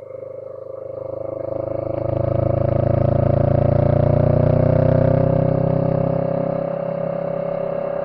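A motor vehicle's engine swells up, rising slightly in pitch, holds loud for a few seconds and then fades.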